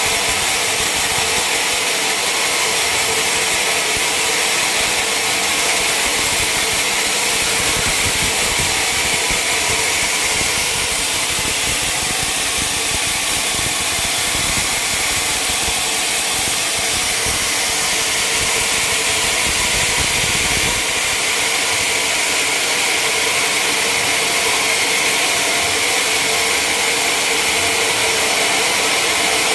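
Sawmill machinery running steadily at a constant loud level, a continuous hiss over a steady hum with no change in pitch or rhythm.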